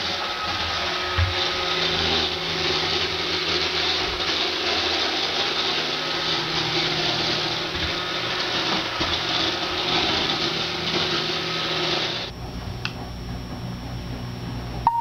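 iRobot Roomba 560 robot vacuum running on a hardwood floor, a loud, steady rattling whir from its brushes and motors; this model is noisy on hard floors. About twelve seconds in the sound drops suddenly to a quieter low hum.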